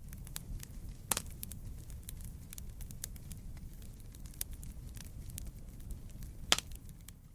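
Wood fire burning: a steady low rumble with scattered crackles. There are two sharp, loud pops, one about a second in and one near the end.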